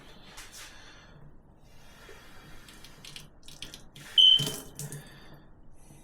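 Faint water trickling and small handling clatter around an espresso machine's portafilter and drip area after a cleaning cycle, with one loud, sharp metallic clink that rings briefly about four seconds in.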